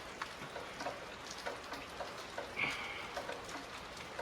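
Steady rain falling, with scattered light ticks and a brief high squeak about two and a half seconds in.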